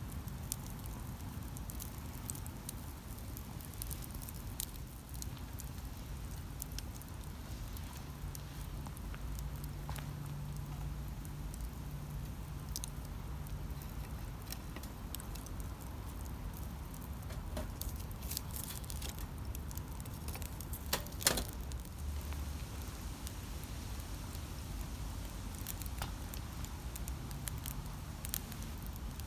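Wood campfire burning, with scattered small crackles and pops over a low steady rumble, and one sharper, louder pop about two-thirds of the way through.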